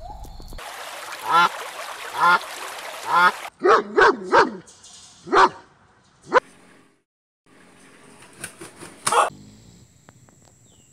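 A dog barking in short barks, about a second apart, with a gap in the middle and a few more barks later on. The background changes abruptly a few times, like separate clips spliced together.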